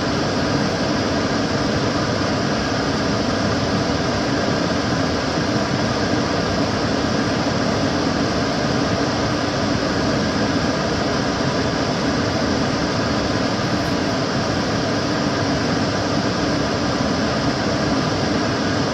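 Kitchen cooker hood extractor fan running steadily: an even rush of air, strongest low down, with a faint steady hum.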